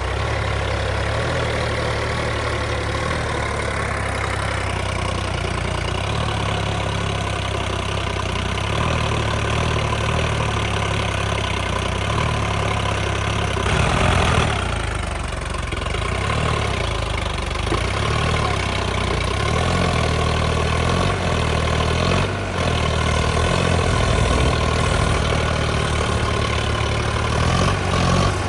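Diesel tractor engine running steadily, with a brief louder rush of noise about halfway through.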